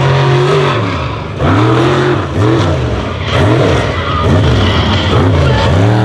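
Unlimited-class mega truck engine revving hard, its pitch rising and falling in quick repeated surges that come closer together after the first couple of seconds, as the throttle is worked on and off.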